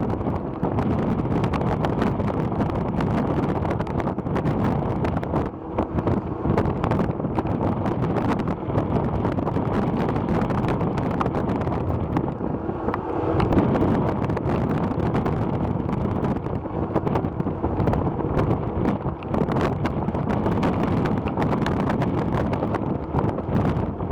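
Wind buffeting the microphone: a steady low rumble with a constant gusty crackle.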